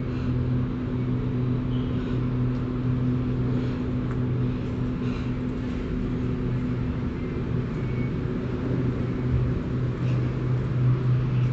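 Electric passenger train humming steadily: a constant low hum with a higher overtone and a few faint ticks.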